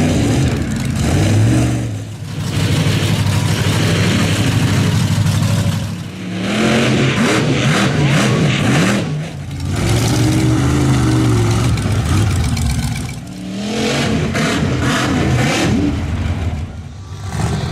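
Monster truck engines revving hard, the pitch climbing and falling again and again. The sound dips briefly every few seconds, at each break from one clip to the next.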